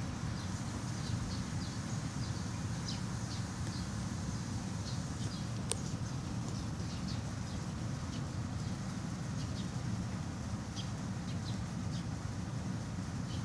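Outdoor ambience: birds chirping in short, scattered high calls over a steady low rumble, with a single sharp click near the middle.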